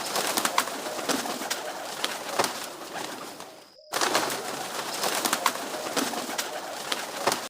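Bird sounds over a steady hiss, with many short clicks or taps. The sound drops out briefly about four seconds in.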